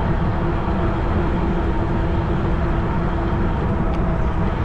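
Riding noise from a Cyrusher Kommoda fat tire e-bike moving along a trail: wind rushing on the microphone with a steady hum from the drive and tires.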